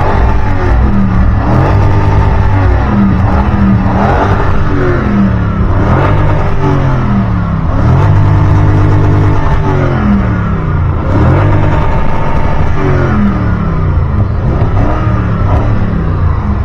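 Car engine revved hard again and again, its pitch climbing and dropping back every second or two, with one longer held rev about halfway through.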